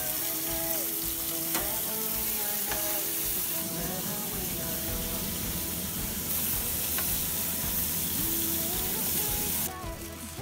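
Bacon and then scrambled eggs frying in a pan, a steady sizzle with the scrape of a spatula stirring the eggs. It steps up in level a couple of times and cuts off shortly before the end.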